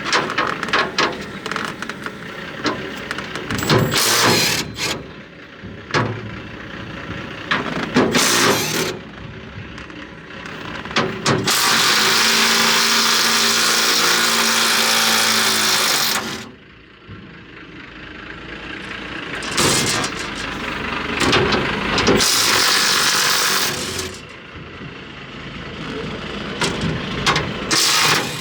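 Mechanic's tool work on an excavator's exhaust area: scattered metal clanks and rattles, with a power tool running steadily for about four seconds near the middle and again for a few seconds later on.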